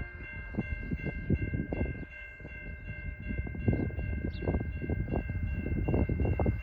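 Diesel-hauled freight train rolling by, its wheels clacking irregularly over the rail joints above a low rumble, with a steady high ringing tone running through.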